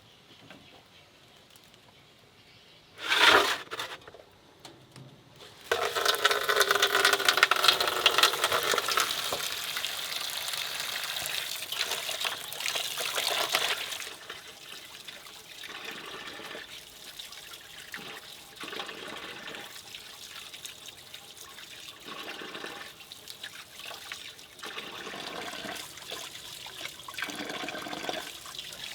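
Water splashing and running: a brief splash about three seconds in, then a strong gush of running water from about six to fourteen seconds in, easing to a lighter, uneven flow.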